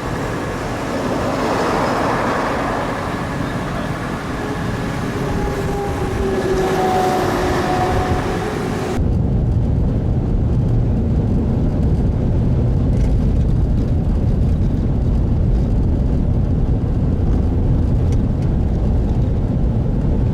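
A car driving on the highway: steady road and wind noise. About nine seconds in, the sound changes abruptly to a duller low rumble.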